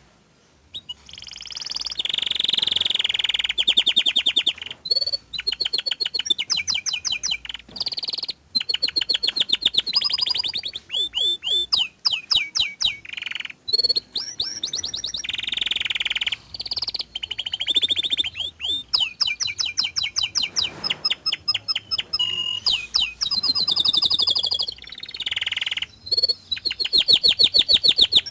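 Domestic canary singing a long, loud song of rapid trills ('rolls') and sharp high notes. The phrases change every second or two, with short breaks between them.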